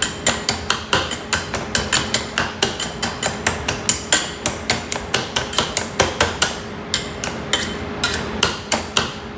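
A potato masher mashing boiled sweet potato in a pot, knocking against the pot in a rapid, steady run of about four or five knocks a second.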